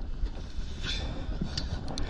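Wind rumbling on the microphone aboard a fishing boat at sea, with a few brief high-pitched ticks about a second in and near the end.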